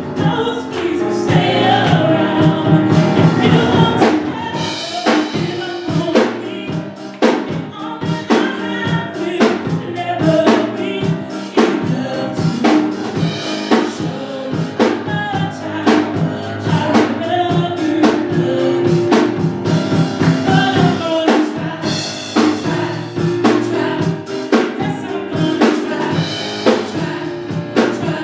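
Gospel vocal group singing praise music with a drum kit keeping a steady beat.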